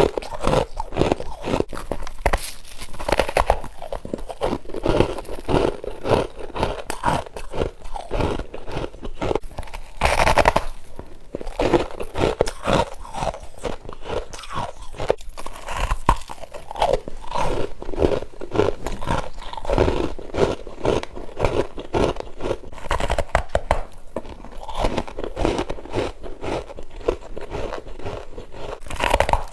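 A person chewing and crunching freezer frost, a continuous run of crisp crunches with a louder crunch about ten seconds in.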